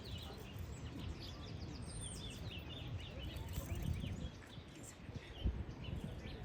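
Birds chirping, many short quick calls one after another, over a steady low rumble.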